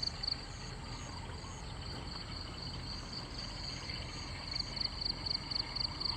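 Insects chirping in steady, rapidly repeating high-pitched pulses, over a low background hum.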